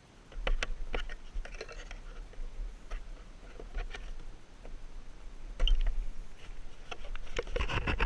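Wind rumbling on the microphone with scattered clicks and knocks, which grow busier near the end.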